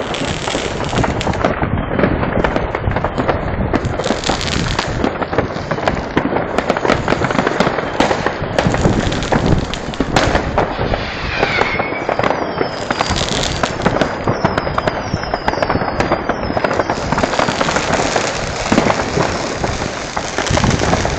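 Many fireworks and firecrackers going off at once in a dense, unbroken crackle of bangs and pops. A falling whistle comes through about halfway, then a run of short falling whistles in the second half.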